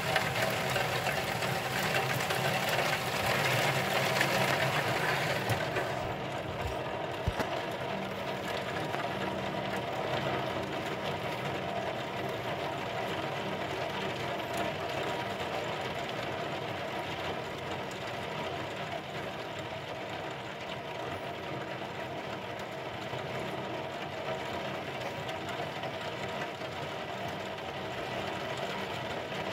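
Heavy thunderstorm rain hissing and pattering on window glass over a steady low mechanical hum. The rain's hiss drops off sharply about six seconds in and carries on softer.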